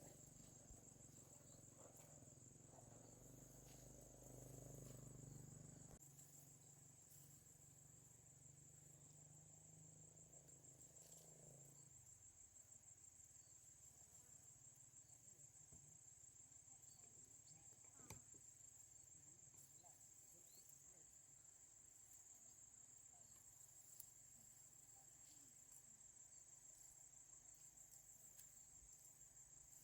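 Faint, steady high-pitched trilling of insects such as crickets, continuous throughout. A low hum underneath fades out about twelve seconds in.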